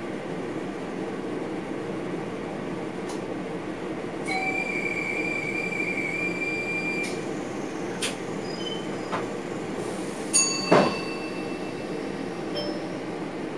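Passenger train running, heard from the driver's cab as a steady rumble. About 4 s in, a high wheel squeal sounds for about three seconds. Near 10 s there are a few clicks and then a loud double knock.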